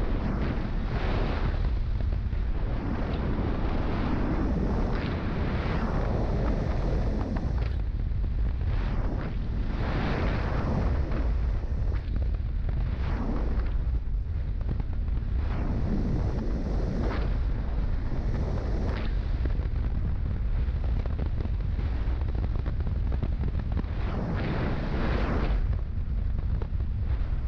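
Wind rushing and buffeting over a motorcycle rider's microphone at highway speed, rising and falling in gusts every few seconds, with engine and road rumble underneath.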